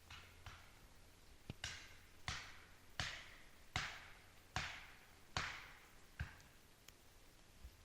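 About seven sharp knocks on wood, evenly spaced a little under a second apart, each with a short hissing trail, as the tree is being felled.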